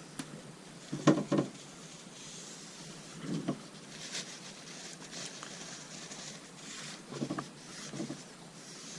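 Scattered handling noises: a pair of knocks about a second in, the loudest, then a few softer knocks and rustles.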